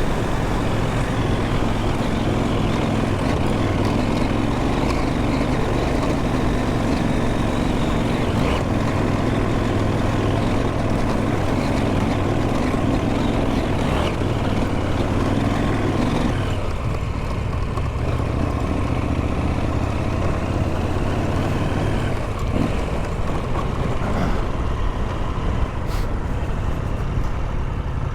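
Motorcycle engine running under way while riding a track, steady for the first part, then its note drops about sixteen seconds in and carries on lower.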